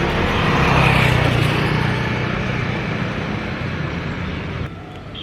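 A motor vehicle's engine running with road noise, slowly fading, then dropping off suddenly near the end.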